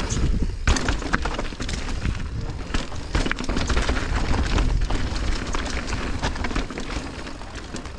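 Mountain bike descending a rocky trail: constant clatter and knocking of tyres and frame over rocks, under a heavy low rumble of wind on the microphone.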